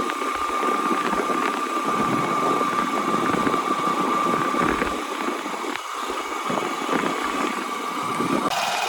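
JCB 3DX backhoe loader's diesel engine running steadily, with a constant high whine over the engine noise.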